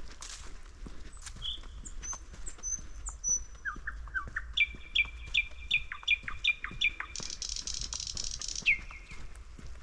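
Small forest birds calling: scattered high chirps, then a run of about three quick chirps a second, then a dense buzzy trill for about a second and a half.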